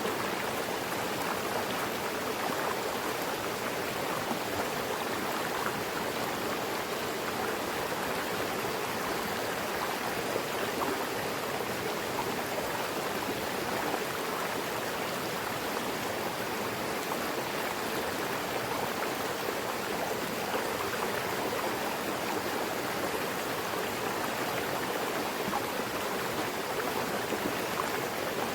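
Mountain river rushing steadily over rocks, an even continuous wash of water noise.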